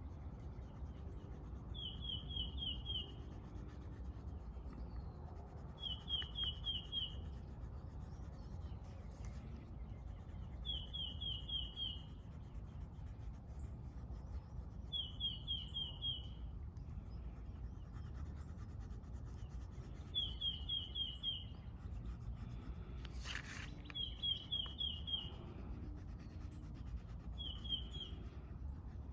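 A songbird repeating one short phrase of four or five quick notes about every four seconds, over a steady low outdoor rumble.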